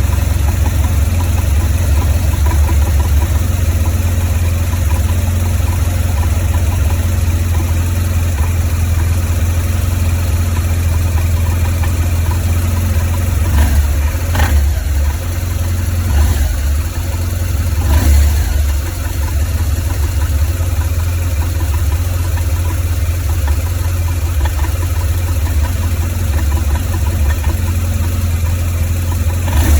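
2004 BMW R1200GS boxer-twin engine idling roughly, a steady low running sound that briefly grows louder twice near the middle. The owner traces the rough idle to the right cylinder head.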